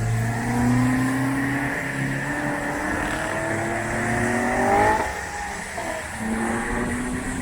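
Car engine accelerating, its pitch rising steadily for about five seconds, then dropping suddenly at a gear change and climbing again, with steady tyre hiss from a wet road underneath.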